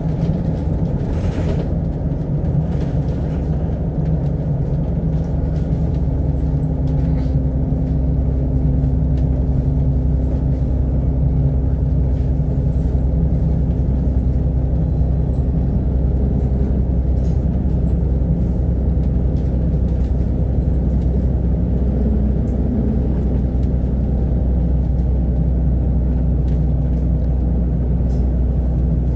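Double-decker bus, an Alexander Dennis Enviro500 MMC, driving at a steady pace: a steady low engine and road rumble.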